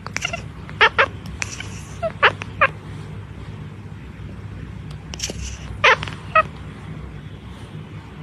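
A pet's short, high-pitched calls, coming in three quick pairs over a steady low hum.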